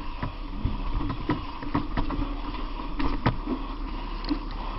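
Irregular knocks and clatter of firefighters working through a fire-damaged building, several sharp hits over a steady mechanical hum.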